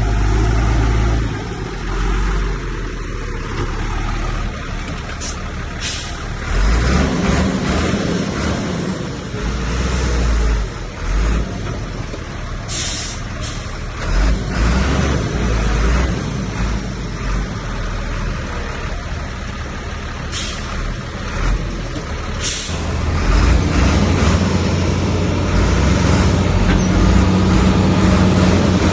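Heavy diesel engines of earthmoving machines working, rising and falling with load, with several short hisses typical of dump-truck air brakes. Near the end an engine settles into a steadier run.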